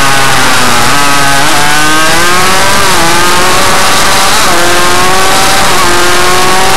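Suzuki RM85 minimotard's two-stroke single-cylinder engine running hard, its pitch climbing and dropping back several times as it accelerates, very loud with a heavy noise haze.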